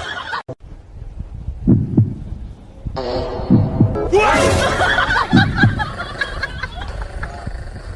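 Dull low thumps, several coming in pairs, over background noise; a busier mix of sounds joins about halfway through.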